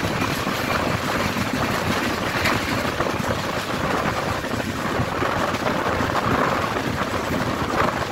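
Passenger train coach in motion, heard from its open side: a steady rushing noise of wheels on the rails and wind.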